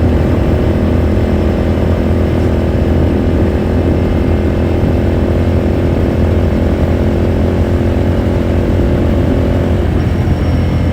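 Ducati Scrambler Sixty2's 399 cc air-cooled L-twin engine heard from onboard, running steadily at cruising speed. Its note drops slightly near the end as the throttle eases.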